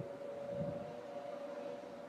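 Steady electronic drone of two or three close sustained tones, siren-like, as in the background of an emergency alert broadcast.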